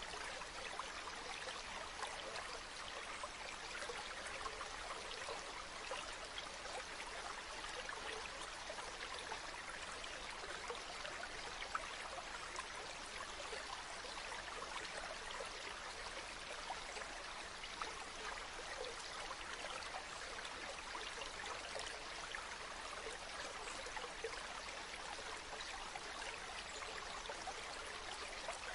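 A river or stream flowing steadily over stones, a continuous bubbling and splashing of water.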